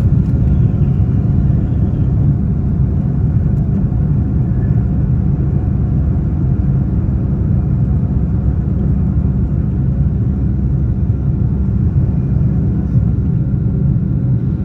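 Boeing 757-200 engines at takeoff power heard inside the passenger cabin from a window seat: a loud, steady low rumble that holds unchanged.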